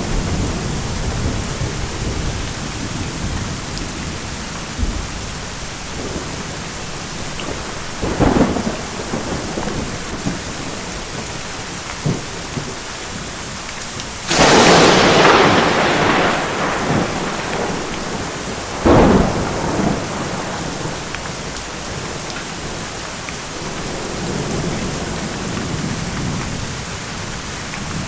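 Thunderstorm: steady heavy rain with rolling low thunder. A sharp close thunderclap comes about halfway through, the loudest sound, lasting about two seconds, with shorter cracks of thunder a few seconds before and after it.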